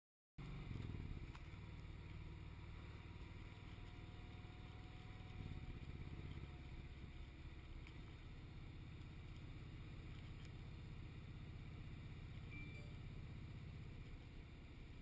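Motorcycle engine running steadily under way, a low rumble that starts abruptly about half a second in and changes note about five seconds in.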